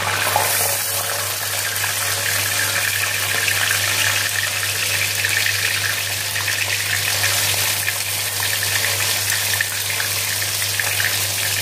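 Ground spice paste sizzling in hot oil in a wok as it is spooned in, a steady loud hiss.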